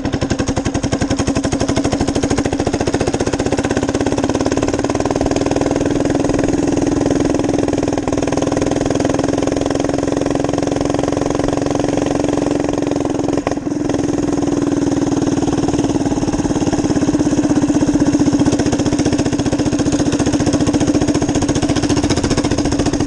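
Minibike's small engine running close by at a fairly steady speed, with a brief dip in the middle.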